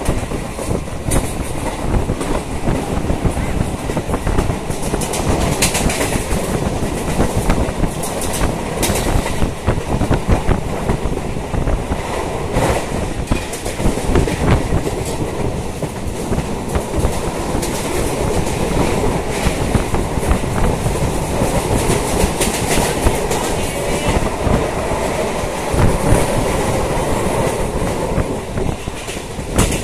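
Suburban electric local train running on the rails: a steady loud rumble and rattle, with the wheels clacking over rail joints several times.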